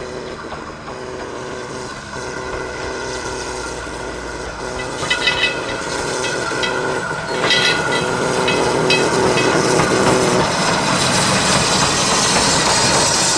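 A train passing on the line, growing steadily louder, with a run of clicks from the wheels about five to nine seconds in.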